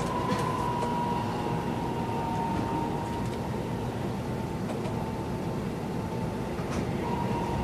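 Keisei 3000 series electric train heard from inside a passenger car while running: a steady rumble of wheels on rail with a high whine that sags slightly in pitch and then holds.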